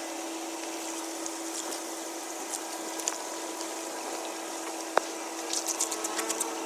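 Water rushing steadily into a cleared storm drain, over a constant hum. A single sharp knock comes about five seconds in, then a flurry of short splashes or clicks near the end.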